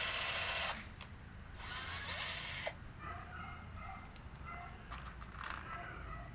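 Power drill running in two short bursts of about a second each, boring or driving screws into wooden boards. Faint short animal calls follow.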